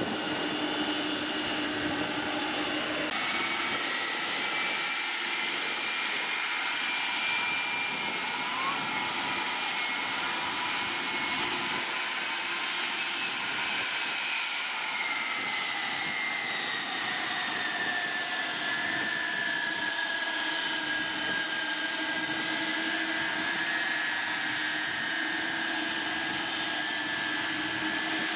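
Jet airliner's engines running at high power on its takeoff run: a steady roar with a whining tone that falls in pitch about halfway through as the aircraft passes.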